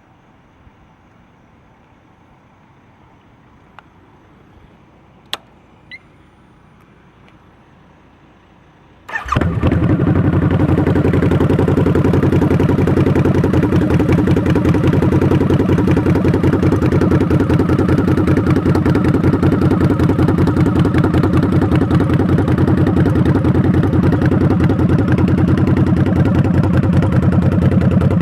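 A few faint clicks, then about nine seconds in the 2009 Harley-Davidson V-Rod Muscle's liquid-cooled 1250 cc Revolution V-twin engine starts and settles into a steady idle.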